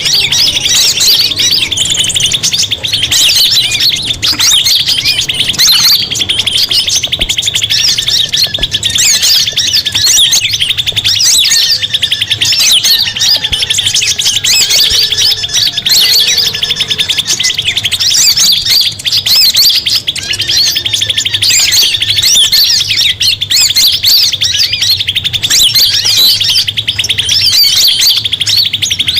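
Bird-lure recording of a dense chorus of small songbirds, many overlapping rapid high trills and chirps, played continuously to attract wild birds.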